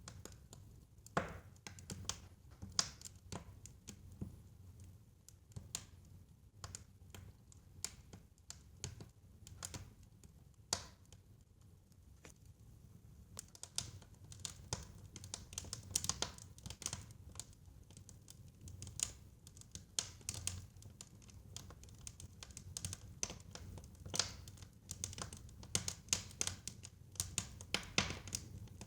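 Wood fire in a fireplace crackling, with irregular sharp pops and snaps over a low steady rumble; the pops come thicker in the second half.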